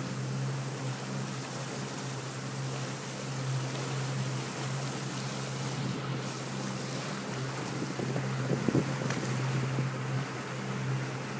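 A motorboat's engine running at a steady speed, under wind and water noise. A few brief thumps come about eight seconds in.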